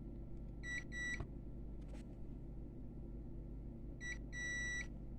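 A multimeter's continuity beeper sounds in two pairs of short, high beeps, about a second in and again about four seconds in, as the probes are touched across the board's bypass capacitors. The test shows they are not shorted. A steady low hum runs underneath.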